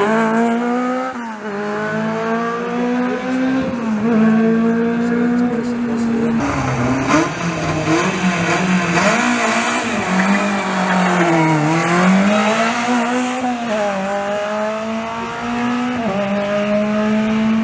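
Rally car engine revving hard. Its pitch climbs, falls back sharply several times, and is held high and steady for stretches of a few seconds.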